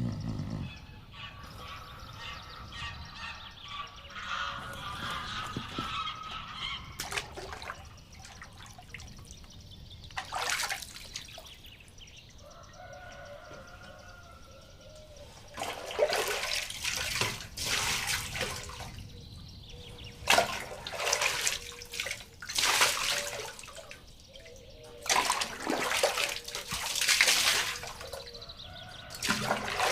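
Hand-made foley sound effects: bird-like chirping in the first few seconds, then a series of short water splashes and drips.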